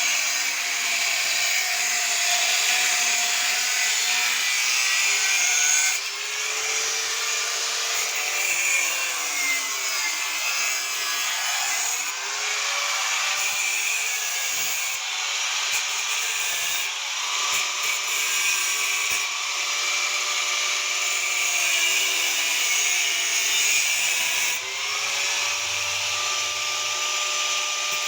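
Electric power tool running under load, with a steady hissing, grinding noise. Its motor whine dips in pitch and recovers several times as it bites into the work.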